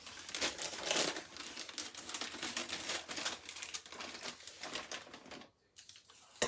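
Plastic packaging crinkling and rustling as it is handled and opened, in a busy irregular crackle that stops about five and a half seconds in.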